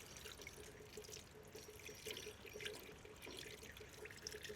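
Faint bubbling and small pops of air escaping from dry potting mix as a pot soaks in rainwater. The bubbling is the sign of very dry soil taking up water, and it stops once the mix is soaked.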